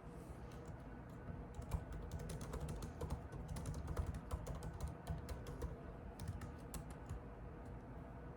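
Typing on a computer keyboard: a quick, uneven run of keystroke clicks starting about a second in, thinning out near the end.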